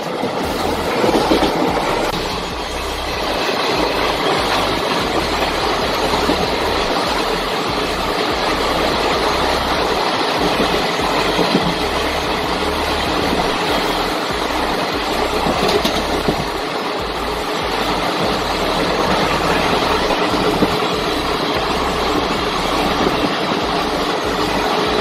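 Express passenger train running at speed: a steady rumble and rattle of coaches and wheels on the rails, with wind buffeting the microphone at the open door.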